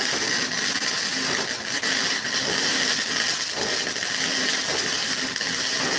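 MIG welding arc burning steadily with a continuous crackling hiss.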